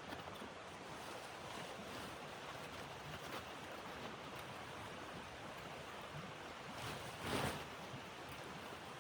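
Steady rushing of snowstorm wind through the forest, with a louder whoosh a little after seven seconds in.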